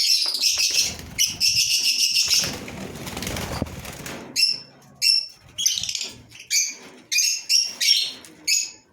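Fisher's lovebirds chattering in a dense run of shrill chirps, then a brief rustling noise about halfway through, followed by single sharp chirps every half second or so.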